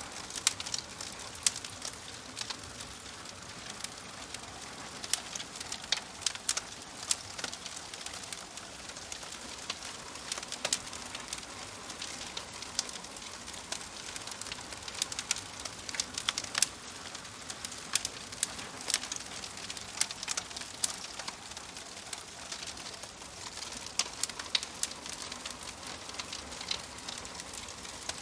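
Wood fire crackling and popping in a fireplace: irregular sharp pops over a soft steady hiss.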